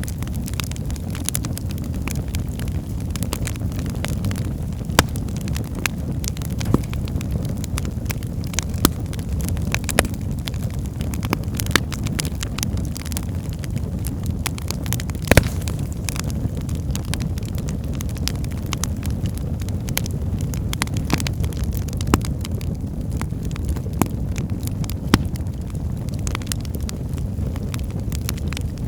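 Wood fire burning in a fireplace: a steady low rumble of flames with irregular sharp crackles and pops, the loudest pop about halfway through.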